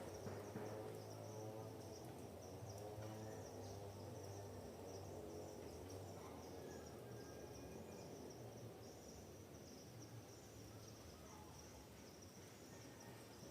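Faint forest ambience: insects chirring steadily in a continuous high pulsing trill, over a distant engine drone that fades away during the first few seconds. A few faint bird chirps come in the middle.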